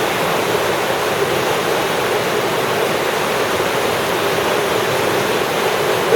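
Steady, loud rush of river water pouring over waterfalls and rapids.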